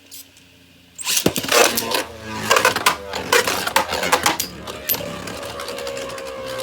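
Two Beyblade spinning tops, one of them 3D-printed, battling in a plastic stadium: a rapid run of sharp clacks and knocks as they collide begins about a second in. From about five seconds the clashing settles into a steady whir that slowly drops in pitch as the tops lose spin.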